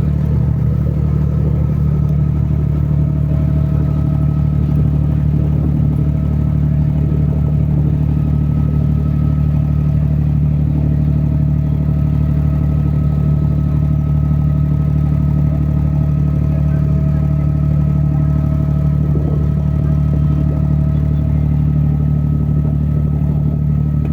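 A boat's engine running steadily, heard on board, a constant low hum with a faint steady whine above it.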